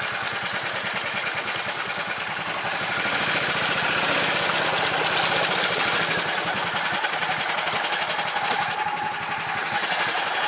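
A karakat's engine runs steadily as the all-terrain vehicle wades and drifts through a boggy stream. The sound gets a little louder from about three to six seconds in.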